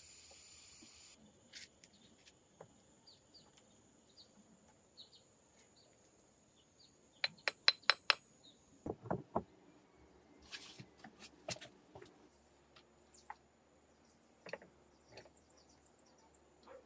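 Scattered sharp knocks and clicks of hard objects striking each other, with a quick run of about five loud sharp knocks near the middle followed by a couple of duller thuds, over a faint steady high insect trill.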